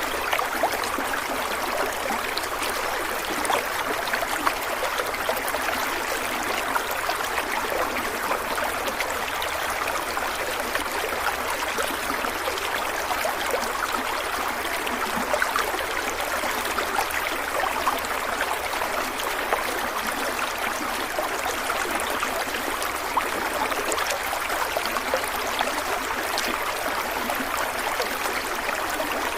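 Stream of water flowing steadily over stones, a continuous rushing with many small trickles and splashes.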